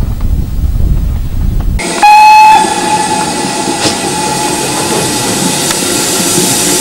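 Wind buffeting the microphone, then an abrupt change to a steam locomotive: about two seconds in, one short, loud blast on its steam whistle, followed by steady steam hiss.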